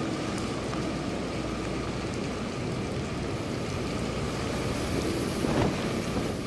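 Steady rush of wind and rain on an outdoor microphone in a storm, a little stronger near the end.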